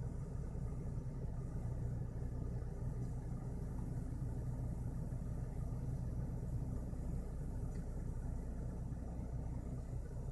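BMW N52B25 2.5-litre straight-six idling steadily at about 1200 rpm, a low, even rumble heard from inside the car's cabin. The idle is held up by the INPA VANOS system test while the intake camshaft timing is being adjusted.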